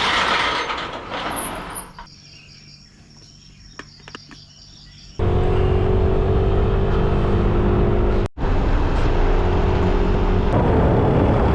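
Motor vehicle engine running steadily on the road, coming in suddenly about five seconds in and broken by a brief cut a few seconds later. Before it, a rushing noise fades out, followed by a quieter stretch with a few faint clicks.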